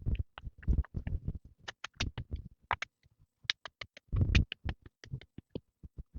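Irregular sharp clicks and knocks, several a second, with heavier thuds about a second in and about four seconds in.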